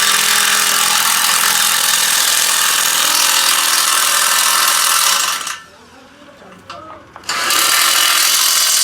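A loud power tool running steadily in two long runs, with a pause of about two seconds starting about five and a half seconds in.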